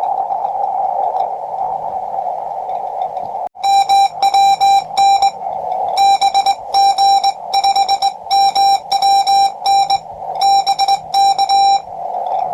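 Shortwave receiver hiss from a QRP Labs QCX-20 transceiver, cut off abruptly about three and a half seconds in, then a Morse code (CW) tone keyed in quick dots and dashes, sent on a Vibroplex Lightning Bug semi-automatic key, with receiver hiss returning briefly in the pauses between groups and again near the end.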